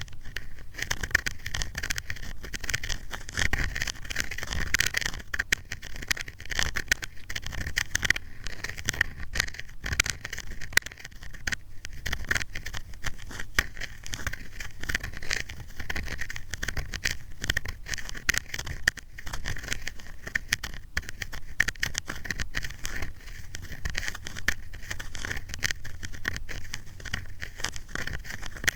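Ear-cleaning ASMR: an ear pick scraping and rubbing against the microphone, a continuous crackly scratching full of small clicks.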